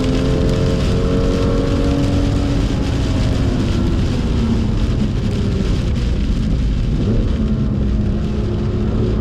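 BMW M2's straight-six engine running at speed over a thick hiss of rain and tyre spray on a wet track. The engine note slowly drops, then climbs again about seven seconds in.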